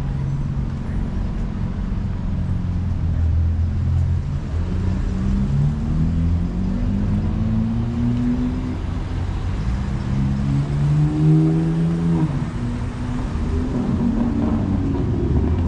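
Car engine accelerating on a city street, its pitch climbing several times, over a steady low rumble of traffic.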